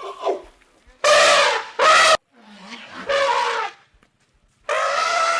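An animal calling: a series of loud, wavering, pitched cries, about a second in, again shortly after, a quieter one around three seconds, and another starting near the end.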